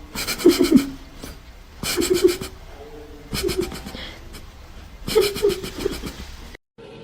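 A person laughing in four short fits of rapid ha-ha pulses, each under a second long.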